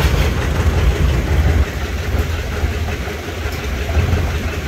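Antique tractor engines running at idle, a steady low rumble that eases off briefly in the middle.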